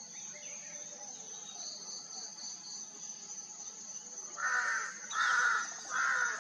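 A crow cawing three times in quick succession near the end, over a steady high-pitched insect drone.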